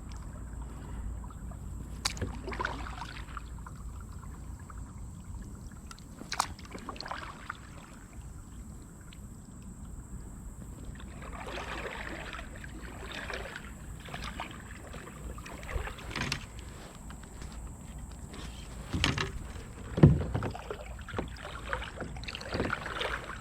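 Kayak paddle strokes in the water, a brief swish every few seconds, with a sharper knock about twenty seconds in.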